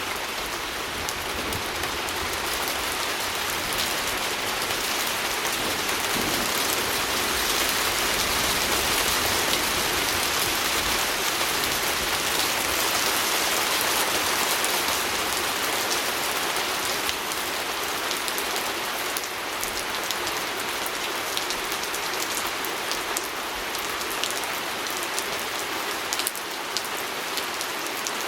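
Steady rain hitting a window pane, a dense patter of drops with occasional sharper individual taps, swelling slightly in the middle and easing a little towards the end.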